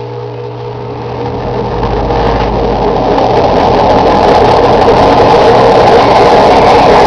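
Enxuta washing machine spinning, a loud mechanical drone that grows louder over the first few seconds, with a low rumble coming in, then holds steady: the noise of blown drum bearings.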